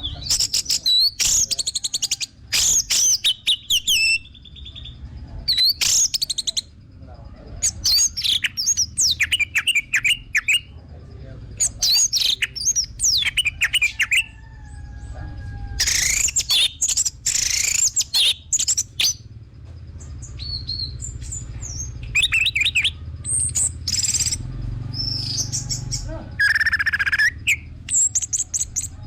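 Orange-headed thrush singing in a string of fast, varied phrases of whistles and trills, coming in bursts with short pauses between them, over a steady low rumble.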